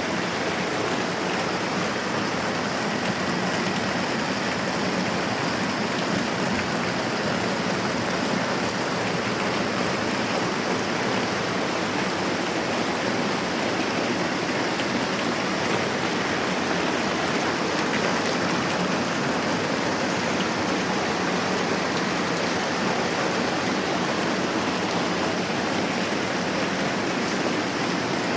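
Moderate rain falling in a steady, even hiss.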